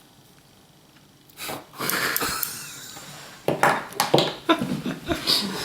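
Handling noise from small tools and camera parts: a rustle about a second and a half in, then a quick run of sharp clicks and taps.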